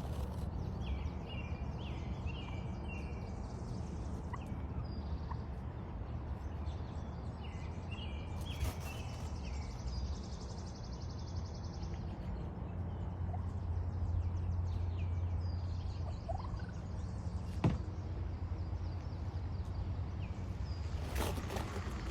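Wild turkey gobbling: two bursts of short, rapid notes, about a second in and again about eight seconds in, over a steady low rumble. A single sharp click comes near the end.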